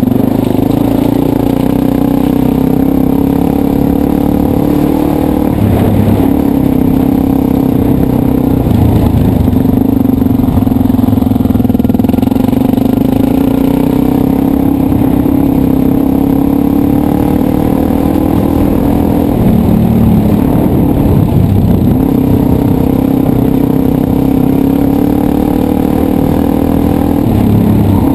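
Dirt bike engine running under way at a fairly steady pitch, with brief drops and pick-ups in revs several times as the throttle is eased and opened again.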